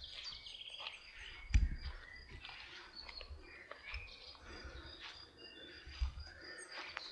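Birds chirping and calling, many short high chirps over a thin steady high tone. Two dull low thumps cut through, one about one and a half seconds in (the loudest moment) and a weaker one near six seconds.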